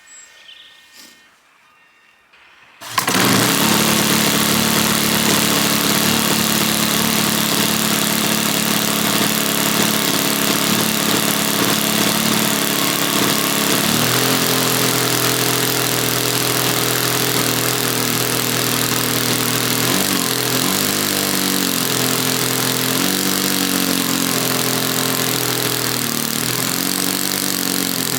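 H-King 120 four-stroke glow model airplane engine (20cc) catching suddenly about three seconds in and running steadily. About fourteen seconds in it changes to a higher note, and in the last eight seconds its speed dips and picks back up several times.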